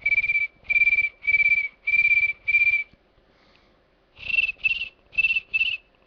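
A person whistling an imitation of a cricket's chirp: five short high notes at about two a second, a pause of over a second, then four more notes a little higher in pitch, each with a slight warble.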